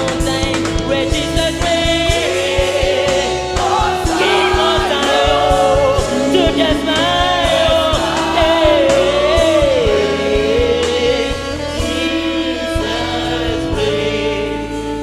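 Gospel worship song: a choir and lead vocal singing over a band with held keyboard chords and a steady drum beat.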